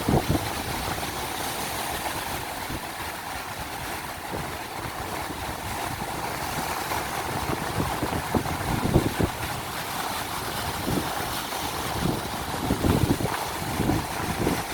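Ocean surf breaking and washing in, with strong wind buffeting the microphone in irregular gusts, heaviest about two-thirds of the way through and near the end.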